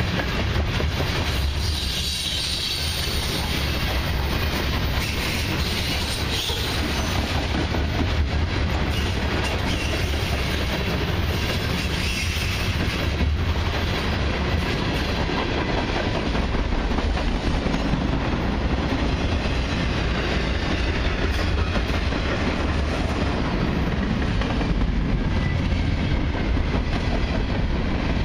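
Freight train tank cars and covered hoppers rolling past at close range: a steady rumble of steel wheels on rail, with clickety-clack over the joints.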